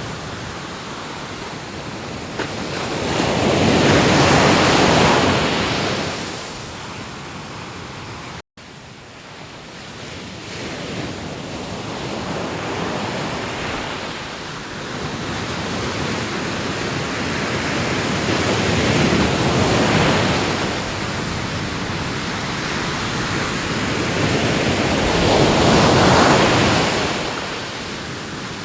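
Ocean waves breaking and washing in, the surf noise swelling to a loud crest every several seconds and then easing off. The sound cuts out for a split second about a third of the way in.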